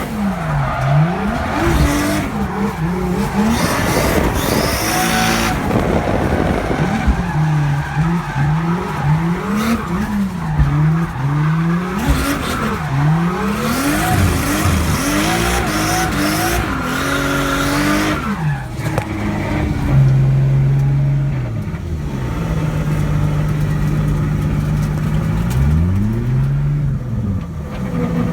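Single-turbo 2JZ inline-six in a BMW 3 Series drift car, revved up and down again and again with tyres squealing through the slides. After about eighteen seconds the tyre noise drops away and the engine holds steadier revs, with one more rev dip and rise near the end.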